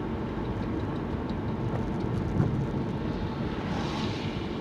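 Steady road and engine rumble heard from inside a moving car, with a small knock about halfway and a brief hiss swelling and fading near the end.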